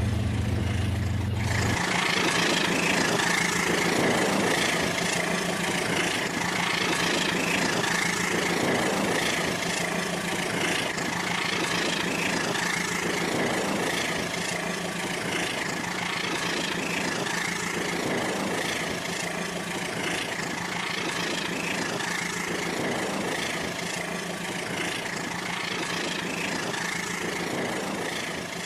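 Battery-powered Rail King toy train running on its track: a steady motor whir with a higher whine, swelling and fading regularly about every two seconds.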